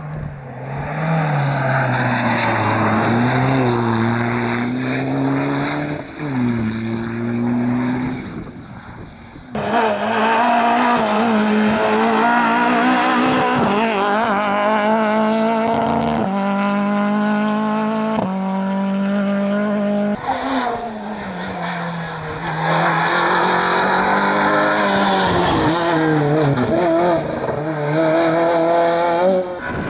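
Rally cars driven flat out on a stage, heard in three separate passes: each engine revs high, its pitch climbing and dropping through gear changes, with some tyre squeal.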